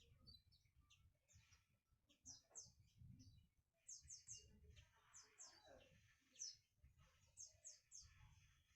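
Faint, quick chirps of small birds: short high notes sweeping downward, often in quick runs of two or three, with a low rumble underneath.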